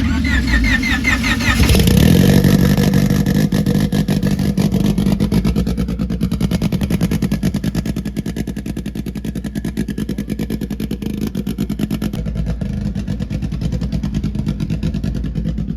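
A car engine bursts into life and revs up briefly about two seconds in, then settles into a loud, steady fast idle.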